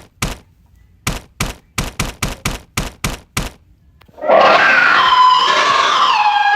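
Rapid knocking, about three to four blows a second, as the inside walls are struck over and over. About four seconds in, a loud groaning cry with falling pitch breaks in and carries on.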